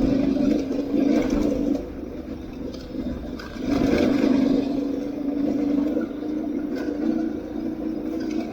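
Aprilia Tuareg 660's parallel-twin engine pulling under throttle off road. It swells twice, at the start and again about three and a half seconds in, with a steady drone in between.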